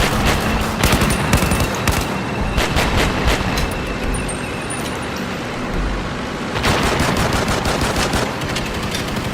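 Battlefield ambience of continuous small-arms and machine-gun fire, many overlapping shots and bursts over a constant rumble. The firing thins out for a few seconds in the middle, then comes back dense.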